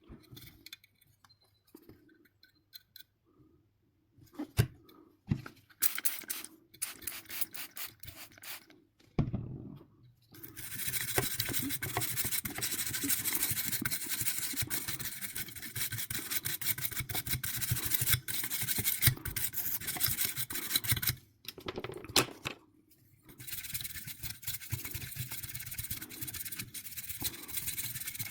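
Hand scrubbing with a brush on PlayStation 4 console parts: a few taps and handling clicks, then a fast, steady scrubbing that pauses for about two seconds and starts again.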